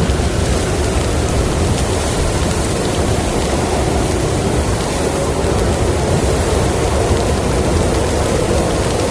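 Steady rushing wind of a snowstorm, an even noise with no gusts or breaks.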